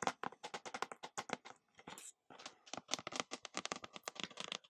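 Rapid close-miked clicks and taps, many a second, with a short pause about two seconds in.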